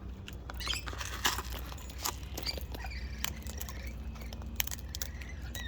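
White cockatoo cracking and chewing seed in its beak: an irregular run of small crisp clicks and crunches.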